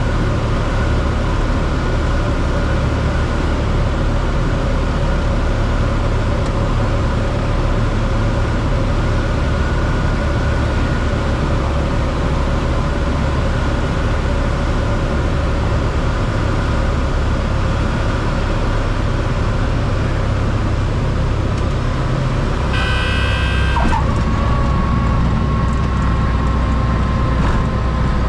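Cessna 172 cabin noise: the engine running at idle under a steady rush of air through final approach, touchdown and rollout. A brief high tone sounds for about a second near the end.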